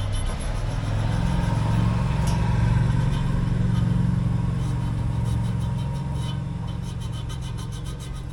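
An engine running with a steady low hum, swelling to its loudest about three to four seconds in and then slowly fading.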